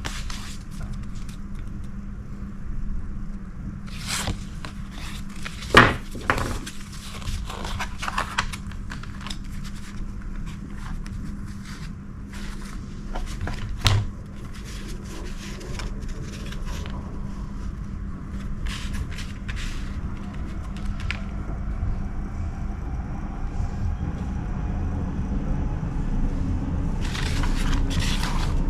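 Photo postcards and their packaging being handled: scattered rustles, scrapes and taps over a steady low hum, with the sharpest taps about six and fourteen seconds in.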